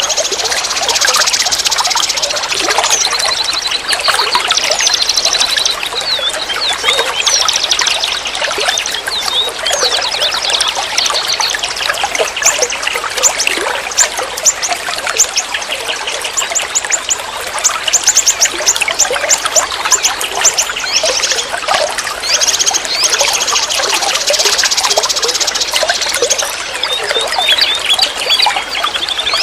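Flowing stream water trickling steadily, with birds singing over it in runs of quick, high, repeated notes.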